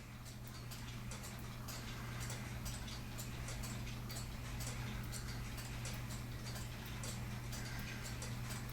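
Weight-driven cuckoo clock movement from an E. Schmeckenbecher Nuremberg Church clock running, its escapement ticking quickly and evenly, with a steady low hum underneath.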